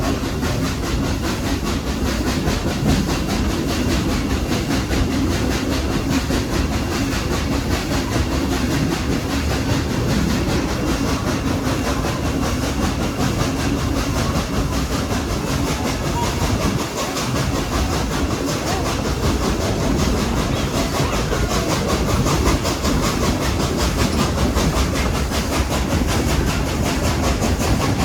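Steam-hauled passenger train behind Baldwin steam locomotive No. 70 rolling steadily, heard from aboard a coach: a continuous rumble and rattle of wheels on the track.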